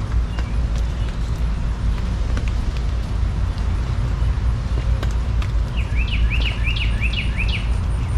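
A steady low rumble throughout, with a bird calling a quick run of about eight repeated chirps near the end.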